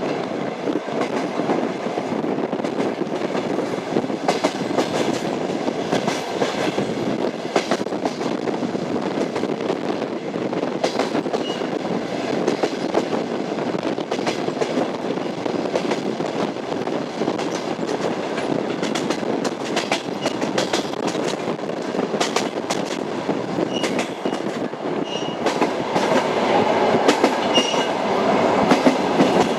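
Train wheels clattering over the rails, with a steady rumble of the moving train and irregular clicks and knocks. The sound grows louder over the last few seconds.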